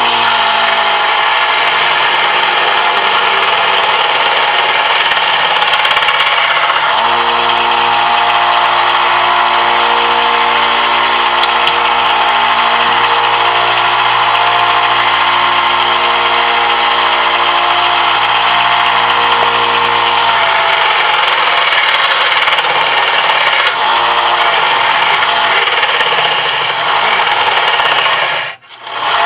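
Electric power tool running steadily under load, working a brass piece. Its tone shifts about seven seconds in and again around twenty seconds in, and the sound cuts out briefly near the end.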